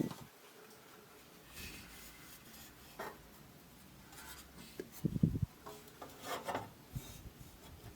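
Intermittent rubbing and scraping handling noises, faint and irregular, with a louder low thump about five seconds in.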